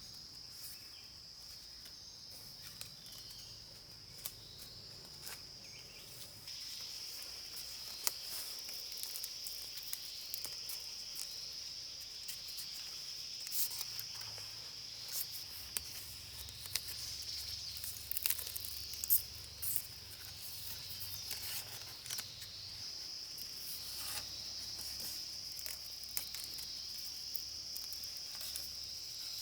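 A steady, high-pitched insect chorus drones without a break and gets louder about six seconds in. Scattered short clicks and snaps sound over it.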